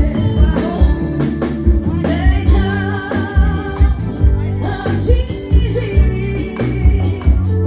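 Live band music: a woman singing with vibrato over keyboard and a steady kick-drum beat of about two hits a second.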